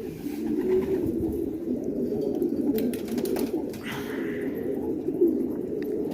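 A flock of domestic pigeons cooing together in a dense, unbroken chorus, with occasional sharp clicks.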